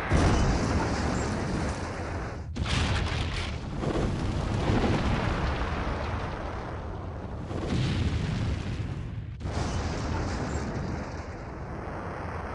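Low rumble of nuclear test explosions, a series of separate blasts cut one after another: the sound breaks off and starts again abruptly about two and a half and nine and a half seconds in.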